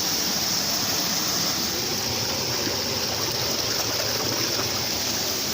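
River water running steadily: an even, unbroken rushing noise.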